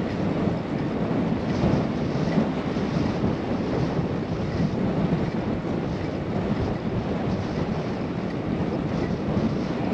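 Steady rushing wind on a GoPro microphone during a bike ride.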